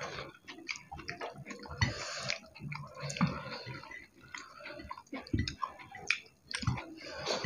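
Two people chewing mouthfuls of rice and chicken curry eaten by hand, with many short, irregular wet clicks.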